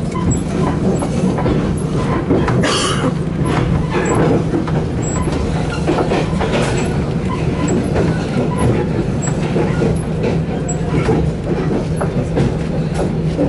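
Express passenger train running, heard from inside the carriage: a steady low rumble with wheels clicking over the rail joints. A brief louder burst of hiss comes about three seconds in.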